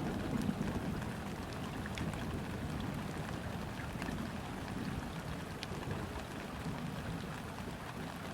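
Steady summer rain falling onto a river's surface, a dense even patter with scattered single drops ticking out clearly. A low rumble of distant thunder dies away in the first second or so.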